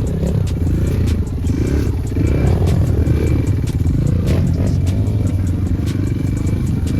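Enduro motorcycle engine running under throttle, its pitch rising and falling as the rider works through mud, with frequent short knocks and clatter.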